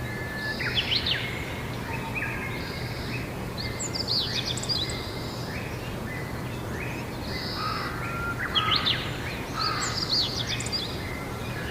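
Several songbirds singing and calling at once: overlapping short chirps and quick high sweeping notes that come in bursts throughout, over a steady low hum.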